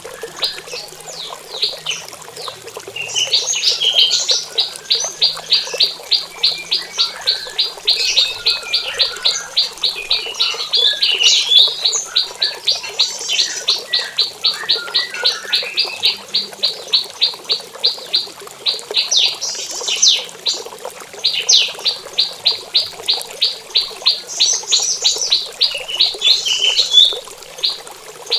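Prinia (prenjak) calling in long runs of sharp, evenly repeated chip notes, about four a second, with a few brief twittering phrases between the runs; the owner takes it for a morning mating call.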